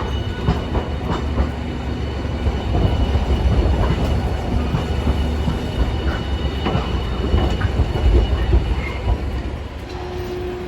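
Hiroden streetcar moving on its rails with a low rumble. Its wheels clack sharply over rail joints and points several times.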